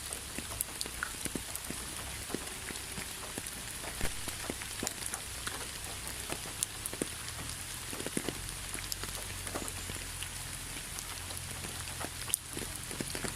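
Steady rain with many separate drops striking a surface at irregular intervals, two drips standing out a little louder, one about four seconds in and one near the end.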